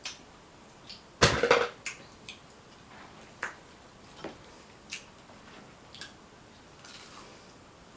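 Scattered small clicks and crackles of seafood shells being handled and peeled while eating a seafood boil, with one louder crackling burst about a second in.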